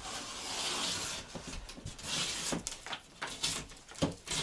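A knife scraping along the paper face of a gypsum drywall sheet in two scratchy strokes, followed by a few light knocks as the board is handled.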